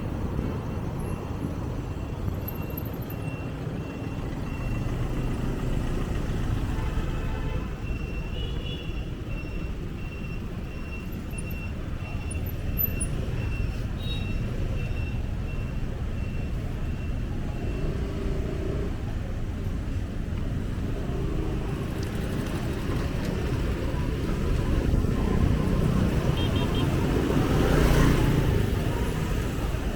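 Street traffic passing around a bicycle rider: a steady low rumble of road vehicles. A faint high beep repeats about twice a second through the first half, and a vehicle passes loudly near the end.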